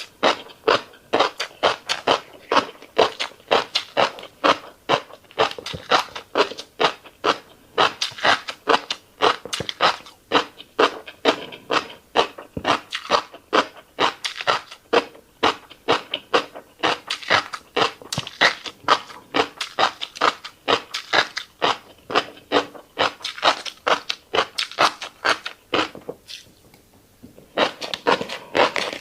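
Close-miked mouth sounds of someone chewing fish roe: a rapid, continuous run of crisp pops and clicks as the eggs burst, breaking off briefly near the end.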